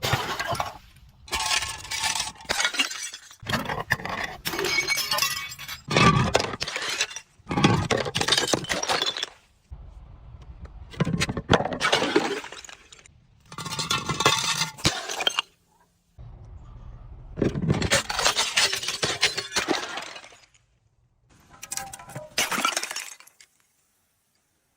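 Glass bottles breaking and crunching, in about a dozen separate bursts of a second or two each, with short gaps between.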